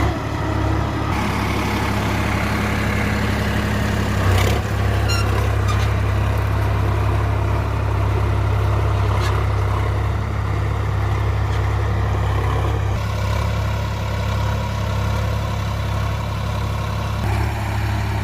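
Sonalika tractor's diesel engine running steadily, with a single knock about four seconds in.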